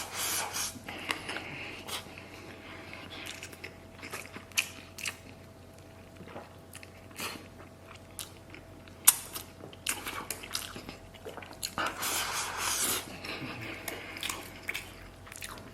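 Close-up chewing and biting of food, with sharp crunches scattered through it. There are two louder stretches of chewing, near the start and about twelve seconds in.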